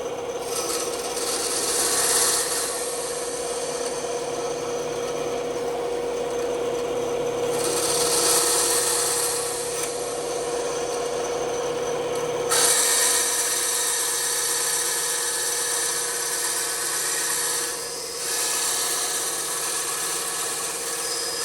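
Bandsaw running with a steady motor hum, its blade cutting through wood. The rasping of the cut swells and eases several times as the piece is fed and turned.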